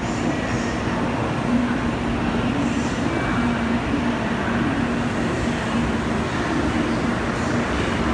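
Steady din of a busy Shinkansen station platform: general noise with a low murmur of the waiting crowd.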